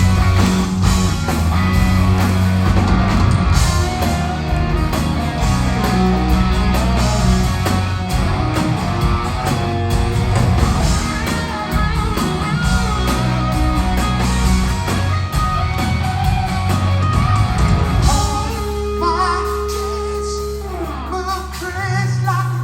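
Rock band playing live, heard from the audience: electric guitars, bass and drums under a sung vocal line. About three-quarters of the way through, the drums and the fuller parts drop out. What remains is a long held bass note under a wavering melody, and a new bass note comes in near the end.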